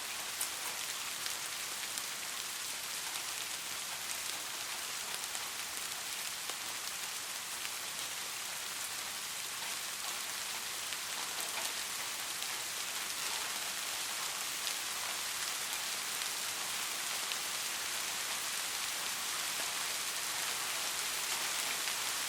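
Steady rain falling on a street: an even hiss with scattered sharper drop taps, growing slightly louder near the end.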